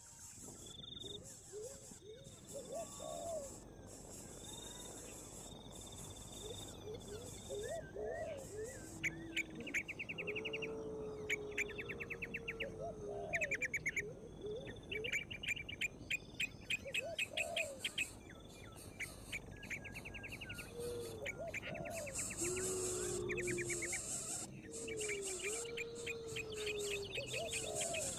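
Outdoor chorus of birds and insects: short low calls that rise and fall come every few seconds, over rapid trills repeated about once a second and a steady high insect buzz that comes and goes.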